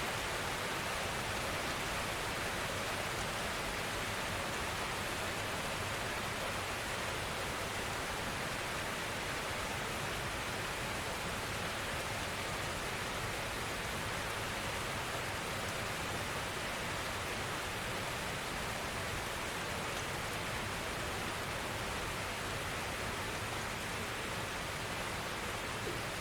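Steady rainfall: an even hiss of gentle rain with no distinct drops or breaks.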